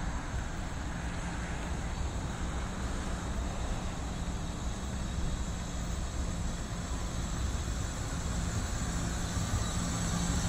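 Steady low rumble and hiss of an NJ Transit train with a constant low hum, building slightly toward the end.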